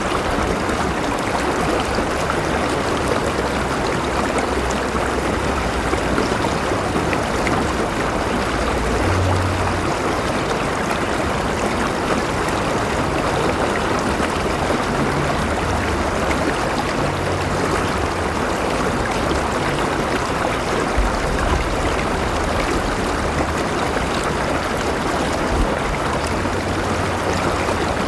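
River water flowing steadily over stones, a constant rushing and babbling.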